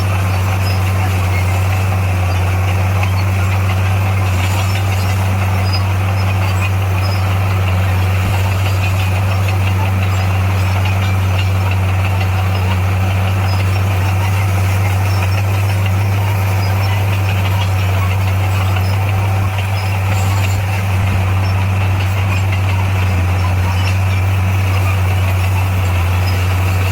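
Diesel engine of an SDLG motor grader running steadily, a constant low drone.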